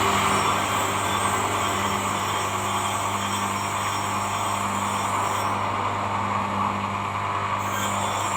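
Steady hum of a mains-powered machine with an even noisy buzz over it, keeping the same level throughout.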